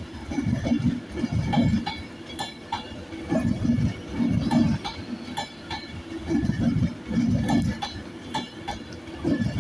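Class 390 Pendolino electric train pulling slowly out, its wheels clattering over rail joints in pairs of low thumps, one pair about every second with short gaps.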